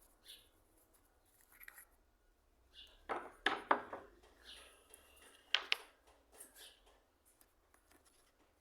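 Handling noises: soft scraping, with a cluster of sharp clicks about three seconds in and one more sharp click about five and a half seconds in.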